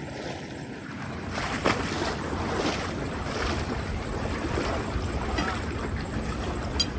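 Steady rush of flowing river water with wind buffeting the microphone. A brief, steady high tone sounds over it in the first second.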